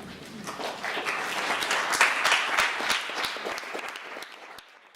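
Audience applauding, building up about half a second in and fading out near the end.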